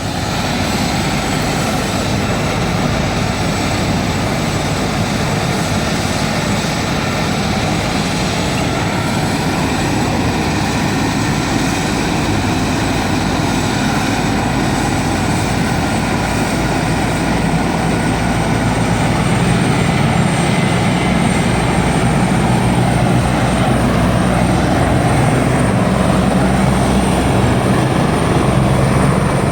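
Helicopter's turbine engine and rotor running steadily on the ground, a constant loud machine noise that grows somewhat louder and deeper in the second half.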